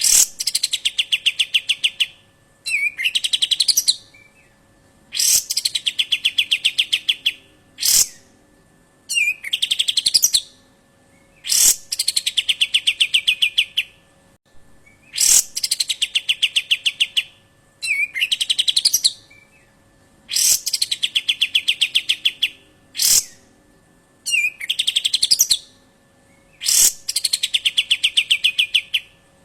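A bird repeating the same rapid rattling call about a dozen times. Each call lasts about two seconds and opens with a high downward sweep that runs into a fast string of even notes. A faint steady hum runs underneath.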